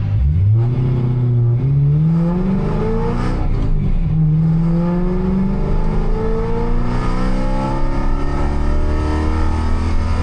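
BMW E92 M3 drift car's engine accelerating hard, rising in pitch. The pitch breaks briefly about one and a half seconds in and again near four seconds, then climbs slowly and steadily.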